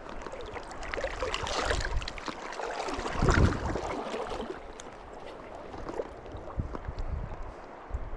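Shallow stream water running and gurgling, with wind rumbling on the microphone; the water swells louder about three seconds in.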